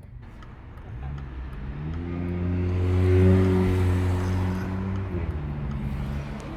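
A car engine running at a steady pitch, growing louder to a peak about three seconds in and then easing off. Its pitch drops a step about five seconds in.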